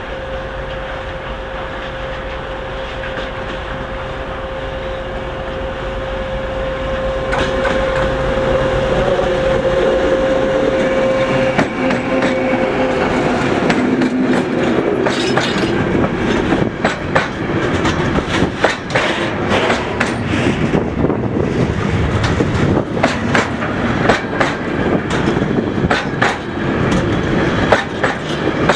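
Class 232 (Ludmilla) diesel locomotive with its 16-cylinder Kolomna engine running as it hauls a container train past at about 20 km/h, with a steady whine for the first twelve seconds or so. Then the container flat wagons roll by, their wheels clicking and knocking rhythmically over the rail joints.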